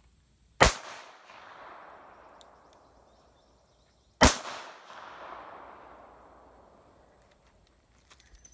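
Two gunshots about three and a half seconds apart, each sharp crack followed by a long rolling echo that fades over about three seconds.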